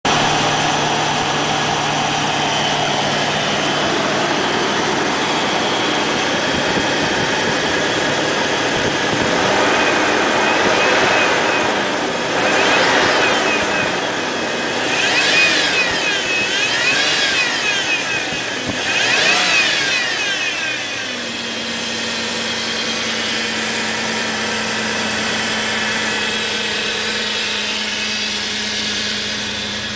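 Toyota 3.4-litre V6 petrol engine (5VZ-FE) idling steadily, revved up and let fall back several times about a third of the way in, then settling back to a steady idle.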